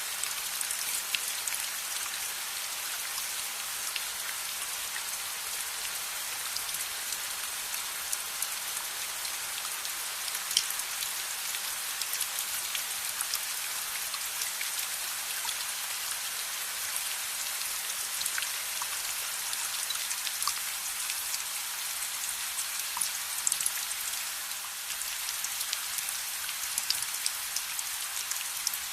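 Steady rain falling, a dense even hiss, with scattered sharp crackles and ticks from a fire mixed under it.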